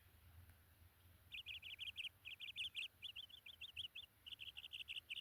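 A songbird singing four quick phrases of rapidly repeated high notes, starting about a second in.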